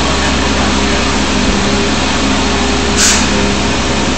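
Steady rushing noise with a low hum from the tram ride in the tunnel, broken about three seconds in by a short, sharp hiss like a jet of air.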